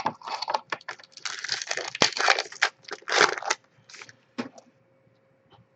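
Crinkling and tearing of a trading card pack's foil wrapper as the pack is opened by hand, in dense bursts for about three and a half seconds, followed by a few light clicks.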